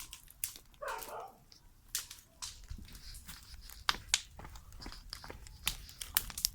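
Scattered, irregular sharp snaps and crackles, with a short wavering sound about a second in.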